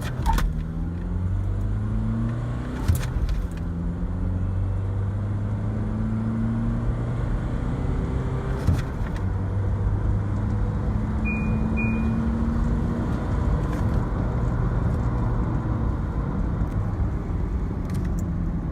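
Mahindra Marazzo's 1.5-litre diesel engine accelerating hard, its pitch rising and then dropping back several times as it shifts up through the gears. A few sharp clicks sound along the way, and two short high beeps come a little past halfway.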